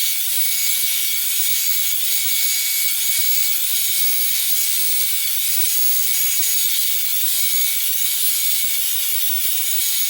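Revlon One-Step hair dryer and volumiser (hot air brush) running steadily: an even hiss of blown air with a faint high, steady motor whine, as it is worked through hair.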